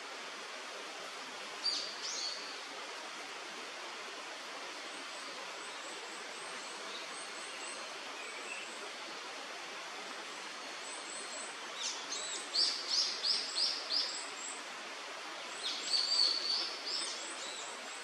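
Steady rush of a river with birds calling over it: a short call about two seconds in, faint high chirps, then two quick runs of sharp, high notes, about five in a row, later on.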